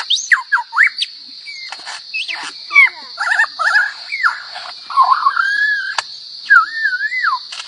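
A bird giving a rapid, varied run of whistles, warbles and sweeping rising and falling calls, over a steady high-pitched buzz.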